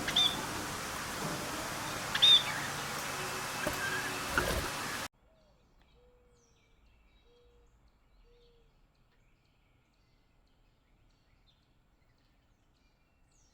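Birds chirping, a few sharp high calls, over a steady noisy background; about five seconds in the sound cuts off abruptly to near silence, broken only by three or four faint short low notes.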